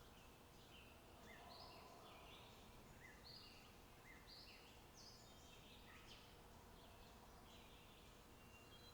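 Faint birdsong: small birds chirping and twittering over and over, over a quiet steady background hiss.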